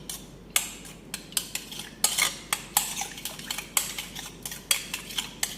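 A utensil stirring a yogurt-and-egg sauce in a bowl. It makes irregular clinks and taps against the bowl's side as it goes round.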